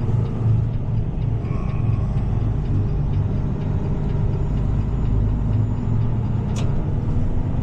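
Heavy tow truck's diesel engine running steadily at low revs, heard from inside the cab. A single short click comes about six and a half seconds in.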